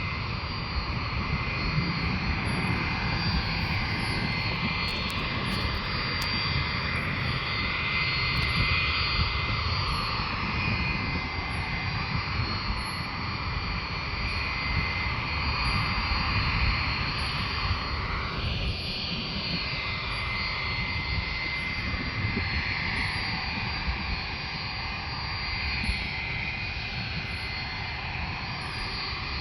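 Boeing 757 jet engines running steadily while the airliner waits on the ground: a constant high whine over a broad rumble, with no rise or fall in power.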